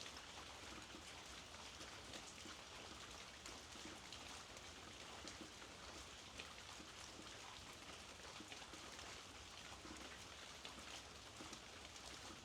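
Steady, faint rainfall with scattered raindrops ticking.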